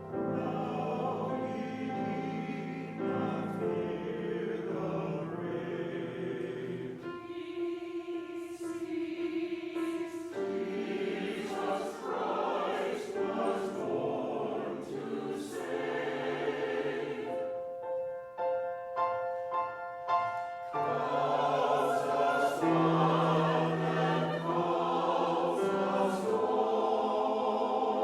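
Mixed chancel choir singing a Christmas choral piece in several parts, thinning to a few held notes about two-thirds of the way through before the full choir comes back in.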